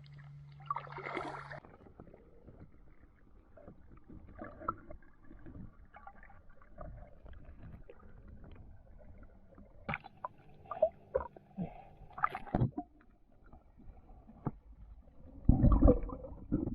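Small fiberglass boat on the water: a low steady hum for the first second and a half, then scattered knocks and clunks, with a louder bump near the end.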